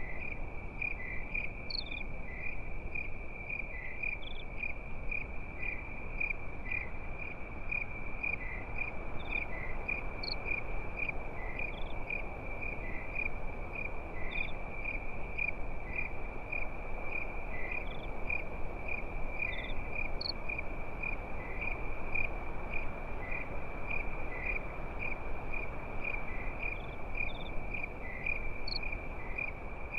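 Crickets chirping in a continuous high, pulsing trill, with short higher chirps every second or two, over a steady low hiss.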